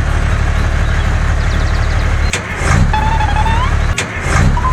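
A motor vehicle's engine running steadily with a low rumble. Two sharp clicks and two short rising squeaky tones sound over it in the second half.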